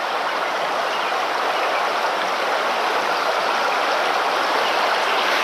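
Creek water flowing steadily, an even rushing hiss with no breaks.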